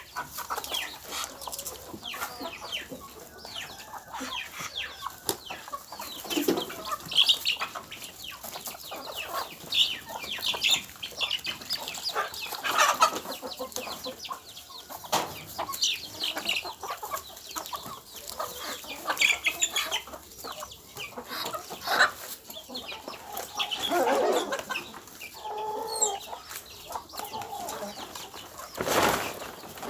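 Chickens clucking on and off, mixed with many short clicks and scratchy sounds. A brief loud noise comes just before the end.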